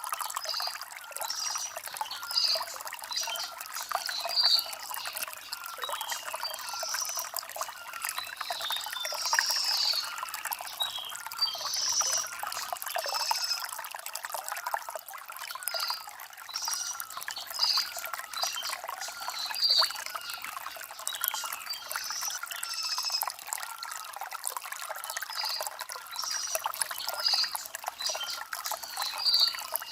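Shallow stream trickling and splashing over stones, steady throughout, with small birds chirping every second or two over the water.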